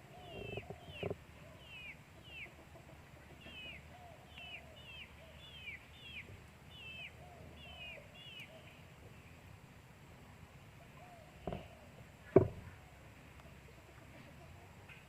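Birds calling: a run of short, high, falling chirps, about two a second, over the first half, with fainter lower calls beneath. Two sharp knocks follow near the end, the second the louder.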